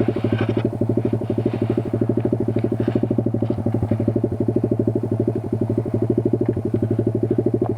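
Kayo 140 pit bike's single-cylinder four-stroke engine running steadily at low revs, with a fast, even exhaust beat that neither rises nor falls.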